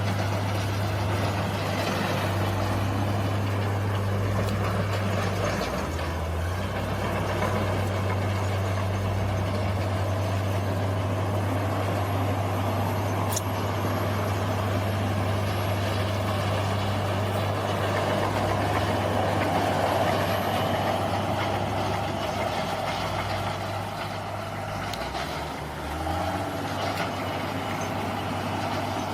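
Bulldozer's diesel engine running steadily under load, a low drone. Its note shifts briefly about six seconds in, and it eases off and picks up again near the end.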